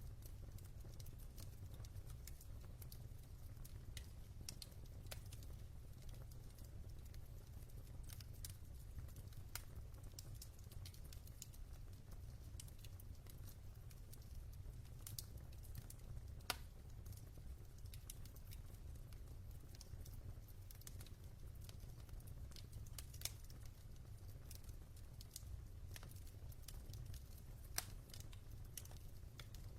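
Log fire in a fireplace crackling: irregular sharp pops and snaps, a few louder ones standing out, over a low steady rumble.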